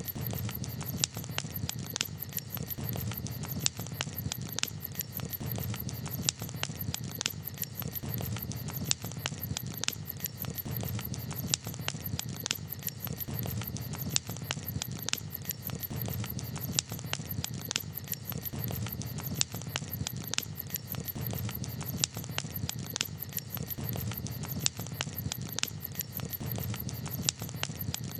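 Campfire crackling: irregular sharp pops and snaps of burning wood, several a second, over a steady low rumble.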